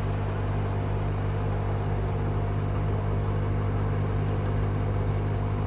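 Hot air rework blower running steadily, a constant fan hum with a hiss of air, heating the phone board to desolder the backlight boost coil.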